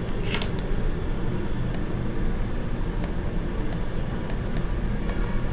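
Steady low background hum with about seven sharp, scattered clicks from the computer mouse and keyboard being worked.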